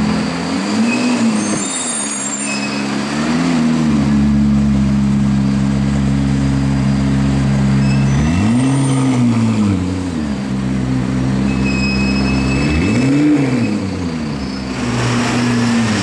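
McLaren P1's twin-turbo V8 idling with a steady note, blipped four times: two short revs early, then two bigger rises and falls in pitch about nine and thirteen seconds in.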